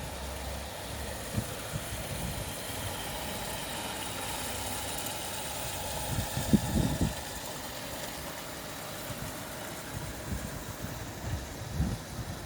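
An engine idling steadily, with a few low thumps about six seconds in and again near the end.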